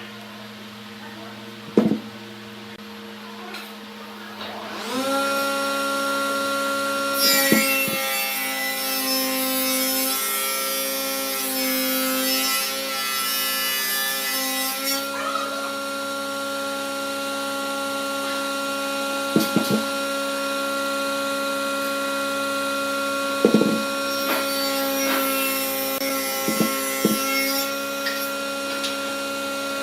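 Wood lathe motor coming up to speed about five seconds in and then running with a steady whine. From about seven to fifteen seconds a turning tool cuts into the spinning wood with a rough scraping noise, and there are a few short knocks.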